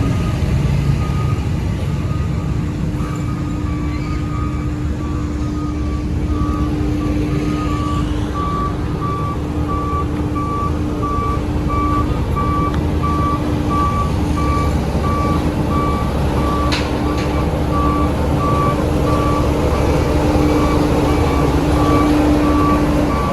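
Heavy diesel construction machinery running, with a reversing alarm beeping at an even rhythm over the engine rumble. There is one sharp knock about two-thirds of the way through.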